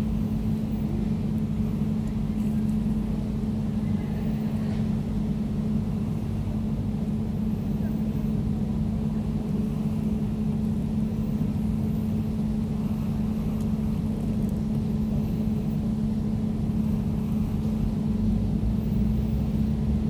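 Air conditioner running steadily: an even low hum with one strong droning note and a fainter higher one above it, unchanging throughout.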